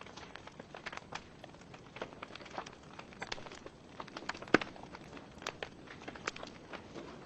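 Wood fire burning in a fireplace: logs crackling with irregular sharp pops and snaps over a soft hiss of flame, one louder pop about halfway through.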